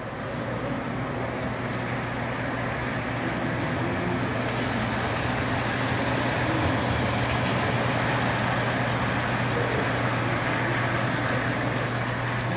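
Model trains running on a miniature railroad layout: a steady rumbling whir over a constant low hum, growing slightly louder over the first few seconds.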